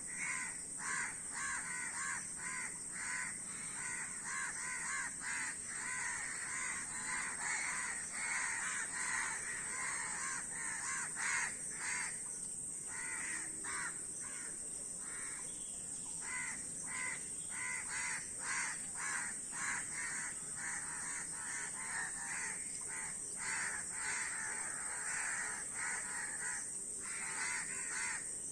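A flock of crows cawing, many short harsh calls repeating and overlapping without a break.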